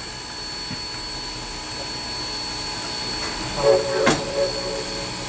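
Steady hiss and running noise of a narrow-gauge steam locomotive, with a short pitched sound and a sharp knock about four seconds in.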